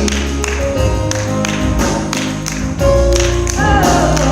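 Gospel music from a live church band: sustained bass notes under a steady beat, with a voice briefly singing near the end.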